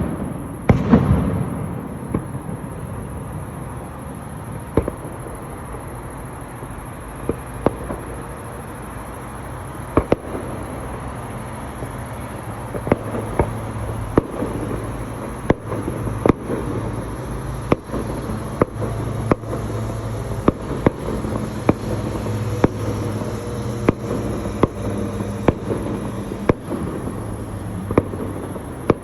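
Fireworks bursting in the sky: a large boom about a second in, then a string of sharp bangs over a steady rumble, coming more often from about halfway through.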